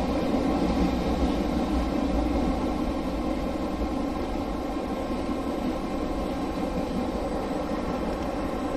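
Running noise of an Ichibata Electric Railway 5000-series electric train (ex-Keio 5000 series) heard inside the cab: a steady rumble of the train moving along the track, easing a little about three seconds in.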